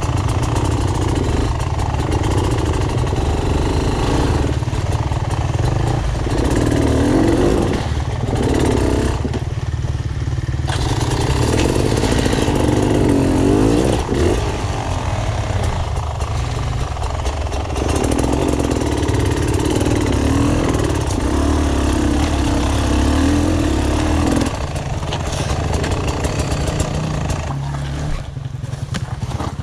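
Dirt bike engine being ridden off-road, revving up and down over and over as the throttle is worked over rough ground. The revs dip briefly a couple of times and ease off somewhat in the last few seconds.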